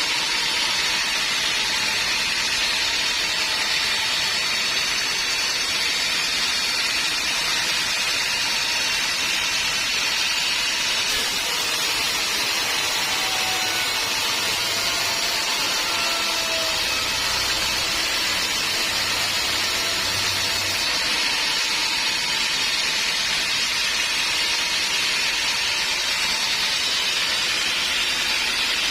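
Homemade band sawmill running steadily as its blade cuts through a teak log, a continuous even hiss.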